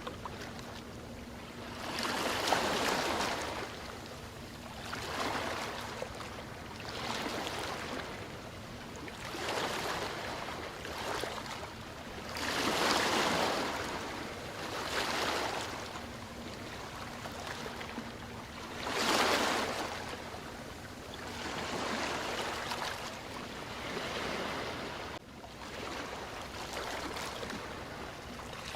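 Ocean waves breaking and washing on a shore, a surge of surf noise every two to three seconds, with the biggest waves about a third and two-thirds of the way in.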